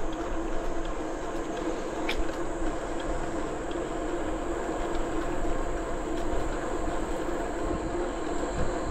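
Steady riding noise of a bicycle rolling along a paved trail, with a constant insect drone.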